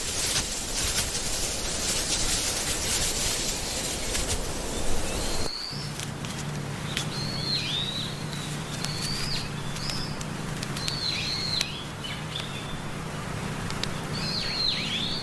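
A rushing noise with scattered clicks, then from about five seconds in a bird's clear whistled calls. Each call is a short high note that rises and then swoops down, repeated roughly every second, over a low steady hum.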